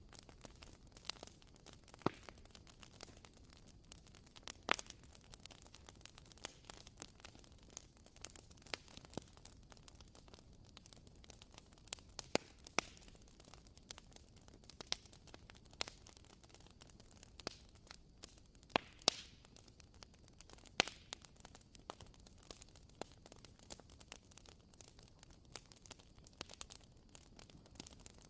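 Wooden-wick candle crackling: a faint, irregular patter of small pops and snaps over a soft hiss, with a few louder snaps scattered through.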